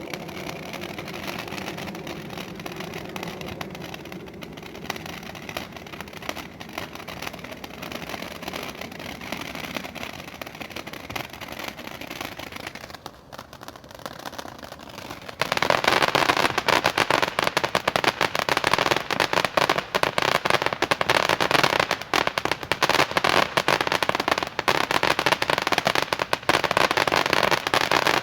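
Consumer firework fountain (Jigsaw by Pyro Predator) spraying with a steady hiss. About halfway through it suddenly switches to loud, dense crackling that keeps going: its crackling finale.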